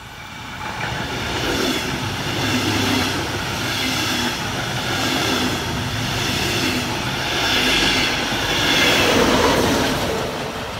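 Double-deck regional train passing close by on an electrified line, its wheels rolling loudly along the rails. The class 114 electric locomotive pushing at the rear goes past loudest near the end, then the sound dies down.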